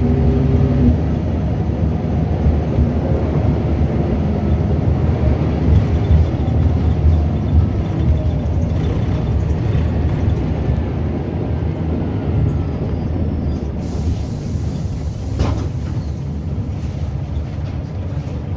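Scania L94UB bus with its DC9 9.0-litre diesel and ZF Ecomat automatic gearbox, heard on the move: the steady engine tone drops away about a second in, leaving a low rumble. Near the end comes a brief high hiss of air and a single knock.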